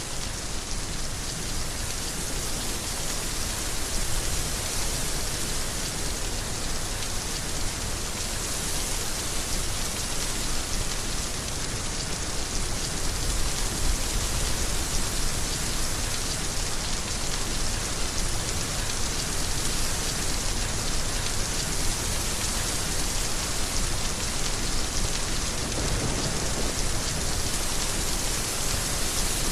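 Heavy rain falling steadily on a surface, a dense even hiss of drops with no break.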